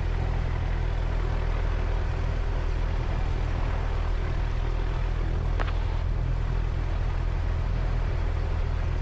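Cessna 172's engine idling steadily on the ground, a low even drone, with one faint click about halfway through.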